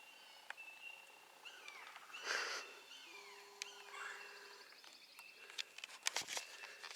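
Faint outdoor birdsong: several short chirps that slide downward in pitch, with a brief rustle about two seconds in and a few sharp clicks near the end.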